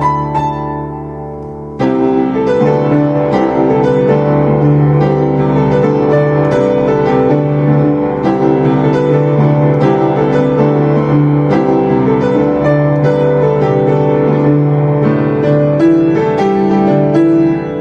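Piano music: a held chord fades for about two seconds, then a busy run of notes picks up and continues.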